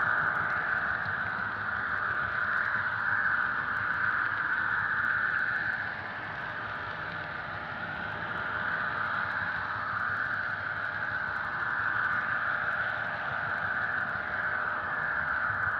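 Diesel locomotive engine sound from an HO scale model's Soundtraxx Tsunami sound decoder, playing through the model's small speaker as a steady drone that swells and eases slowly, dipping slightly about six seconds in.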